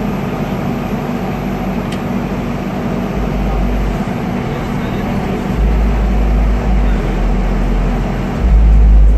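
Farm ute's engine running with a deep, low rumble that gets louder in steps, about three seconds in, again halfway through and again near the end.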